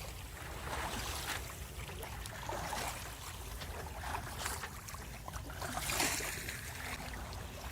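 Water splashing and lapping against a sailboat's hull under way, in irregular swishes over a steady low rumble.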